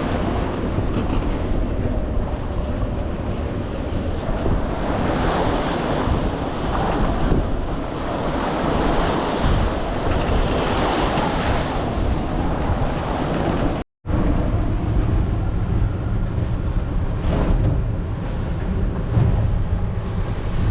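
Strong wind of about 15 m/s buffeting the microphone over the rush of waves and water around a sailing yacht. The sound cuts out completely for a moment about two-thirds of the way through, then returns with a heavier wind rumble.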